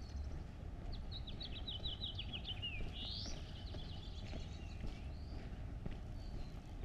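A songbird singing one quick phrase of rapid, descending chirps about a second in, ending in a short rising sweep, over footsteps on pavement and a steady low outdoor rumble.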